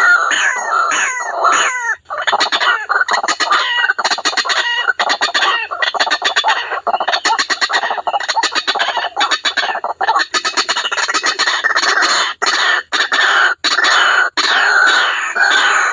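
White-breasted waterhen calls, repeated rapidly and without pause in harsh, short notes. It is a recorded lure call of the kind played to draw the birds in.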